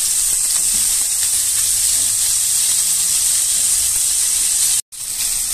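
Chicken satay skewers frying in margarine in a pan on low heat: a steady, high sizzling hiss that cuts out for an instant near the end, then resumes slightly quieter.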